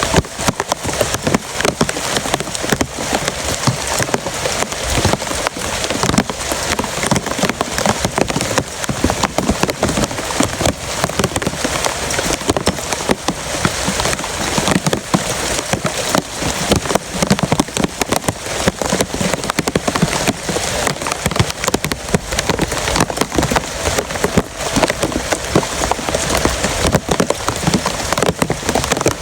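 Heavy rain falling steadily: a dense, even hiss crowded with sharp ticks of individual drops striking a hard surface.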